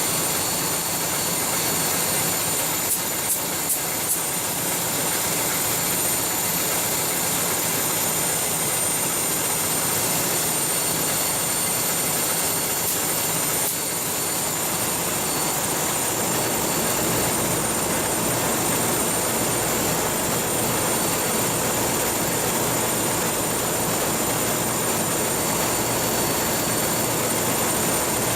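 Coastal cargo ship's machinery running steadily under way: a loud, even roar with a thin high whine over it. Three short clicks come about three seconds in, and the low rumble grows a little fuller about halfway through.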